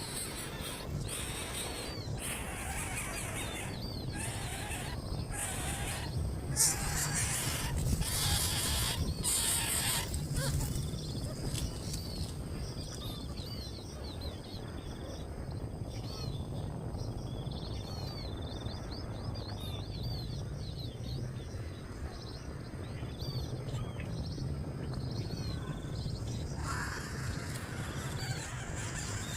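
Small birds chirping outdoors, short upward-hooked chirps repeated many times over a steady low hum. Several brief noisy rustling bursts come in the first ten seconds, the loudest about seven seconds in.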